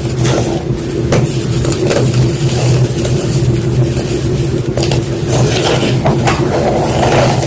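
White gym chalk being crushed, with irregular crisp crunches over a steady low hum.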